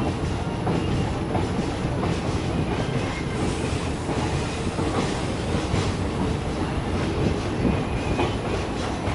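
Diesel multiple unit (DEMU) passenger train running, heard from on board: a steady rumble with a few clicks of the wheels passing over rail joints.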